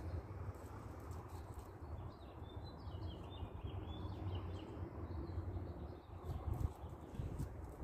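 A bird chirping a quick run of short notes about two seconds in, over a steady low outdoor rumble.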